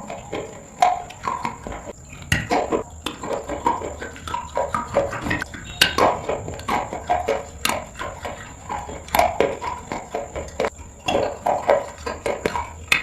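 A person chewing crunchy food close to the microphone: irregular loud crunches and snaps with wet mouth sounds between them, several a second.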